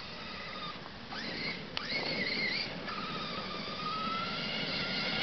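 Brushless electric motor of a 1:8 scale RC monster truck whining under throttle. A whine rises about a second in, and another starts about three seconds in and climbs slowly in pitch as the truck speeds up.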